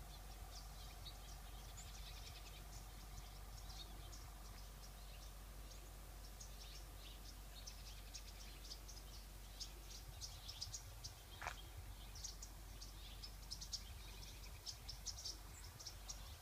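Neighbourhood songbirds chirping faintly, many short high chirps that grow busier in the second half.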